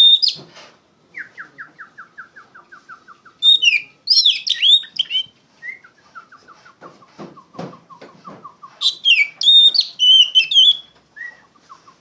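Oriental magpie-robin (kacer) singing loud and continuously, the open 'ngeplong' song. Two bursts of rich, varied whistled phrases, each about two seconds long, alternate with quieter rapid runs of short repeated notes at about seven a second.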